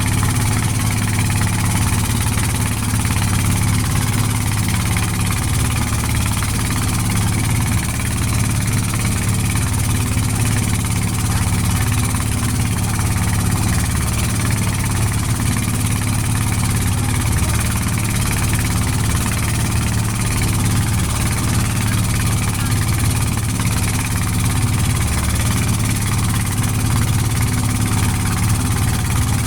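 Boat engine running steadily at an even speed with a deep, constant hum.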